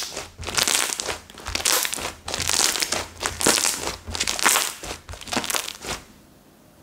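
Cocomo slime being squeezed and pressed by hand, giving a run of noisy, crinkly squishes about once a second that stop about six seconds in.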